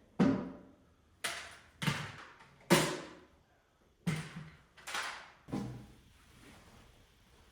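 A series of about seven sharp knocks on wood at uneven intervals, each ringing briefly before the next, during white oak furniture work.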